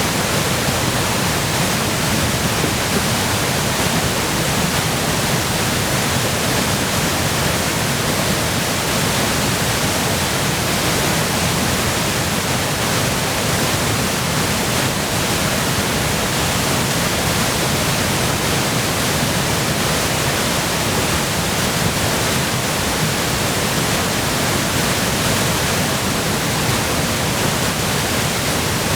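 Waterfall running high with spring meltwater and storm runoff: a steady, loud rush of falling water, unchanging throughout.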